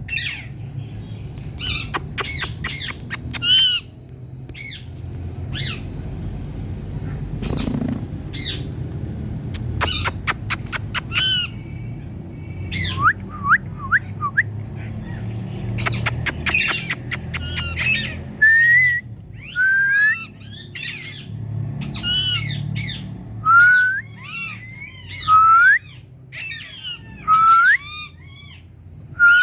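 Indian parrot squawking: quick runs of sharp, shrill screeches, then from about midway a string of separate drawn-out calls that slide in pitch, one every couple of seconds.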